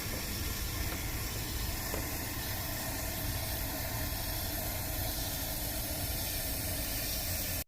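Steady hiss of a compressed-air spray nozzle blowing cleaner into a car's air-conditioning evaporator, with a low rumble underneath; it cuts off suddenly near the end.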